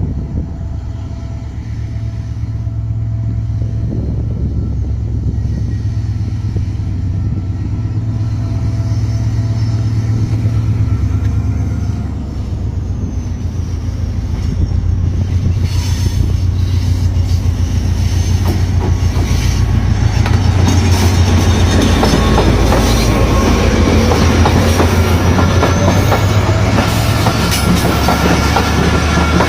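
Passenger train running on the track, with a steady low diesel engine drone and wheels clacking over the rail joints. The clacking grows denser about halfway through, and the whole sound gets louder about two-thirds of the way in.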